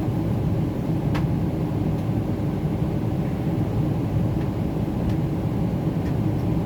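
Steady cabin rumble of a Boeing 777-300ER airliner under way, its GE90 engines and airflow heard from the front of the cabin. A faint click sounds about a second in.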